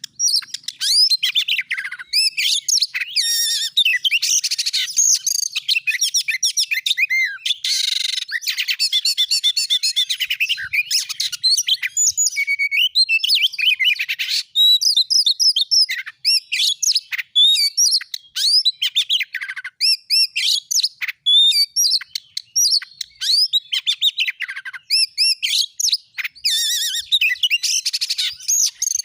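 Oriental magpie-robin (kacer) singing a fast, varied, unbroken song of sweet whistles, chirps and trills. This is the kind of song played as a lure to set a caged magpie-robin singing.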